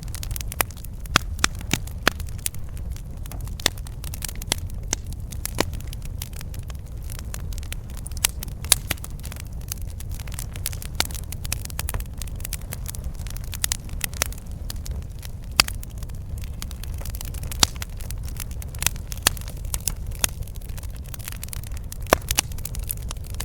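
Campfire burning, with sharp, irregular pops and crackles from the burning wood over a steady low rumble.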